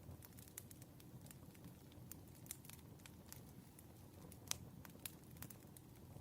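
Campfire crackling faintly: scattered sharp pops and snaps of burning wood over a low steady rumble, with one louder pop about four and a half seconds in.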